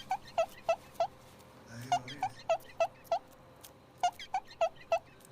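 A cat giving rapid, short, high chirps in three runs of five or six, with brief pauses between the runs.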